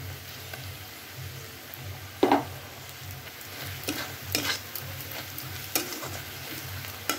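Onion-and-spice masala sizzling in hot oil while a spoon stirs it round the pan, with a few sharp scrapes against the pan, the loudest a couple of seconds in.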